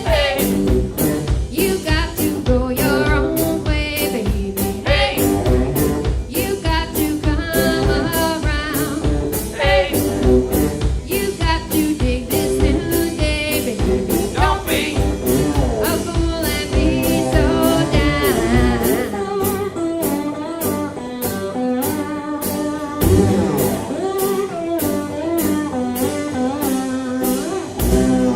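Live band playing a song: a singing voice over guitar and a steady drum beat. The deep low end drops away about two-thirds of the way through while the beat carries on.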